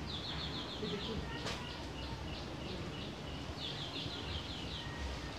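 A bird calling in a quick run of short, high, falling notes, twice, with scattered single chirps between. A sharp click about one and a half seconds in.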